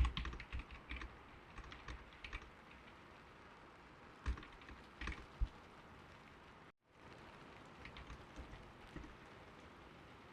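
Typing on a computer keyboard with a soft, "creamy" key sound, in bursts of quick keystrokes: one run at the start, another around four to five seconds in, and fainter typing near the end. A steady hiss of gentle rain runs underneath, and the sound cuts out for an instant just before seven seconds.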